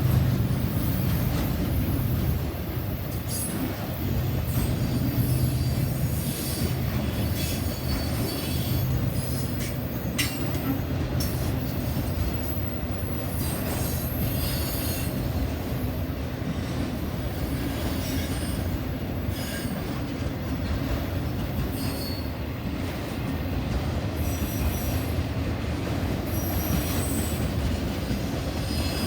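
Railroad cars rolling past on the track with a steady rumble, with intermittent high squeals and clicks from the wheels.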